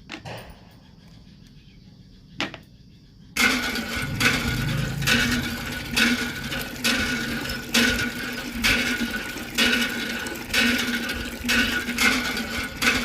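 A small mechanism starts up about three seconds in, after a couple of faint clicks. It then runs steadily, clacking with a stroke that repeats about once a second.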